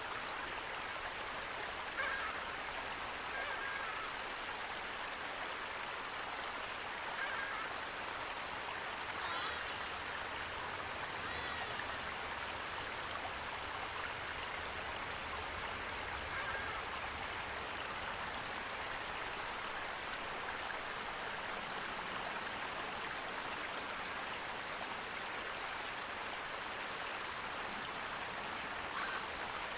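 Steady rushing of flowing water, even throughout, with a few short faint bird calls scattered over it.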